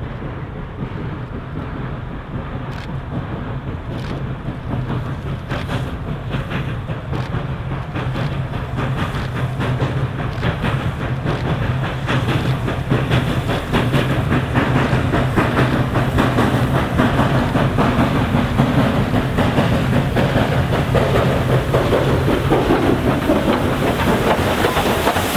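A train approaching and drawing close, growing steadily louder, with a steady low engine hum and wheels clicking over the rail joints more and more quickly.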